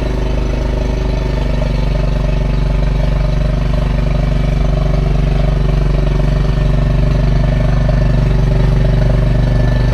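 A steady, low, engine-like drone from a running motor, an even hum with no breaks or changes in pitch.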